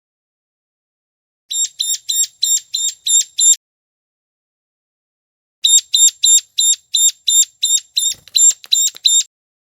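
Ciblek gunung (a prinia) calling in a lure recording: two series of short, high-pitched chipping notes repeated about three times a second, the first about a second and a half in and a longer one after a pause of about two seconds.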